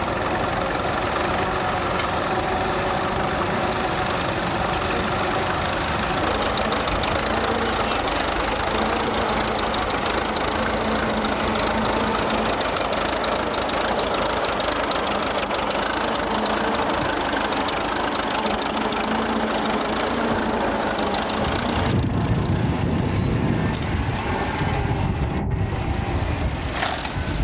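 Vintage tractor engine running steadily. About three-quarters of the way through, a heavier low rumble comes in.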